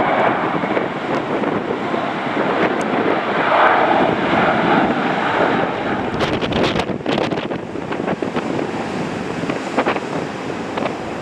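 Jet aircraft engine noise, a steady rushing sound, mixed with wind buffeting the microphone, with a burst of crackling gusts about six to seven seconds in.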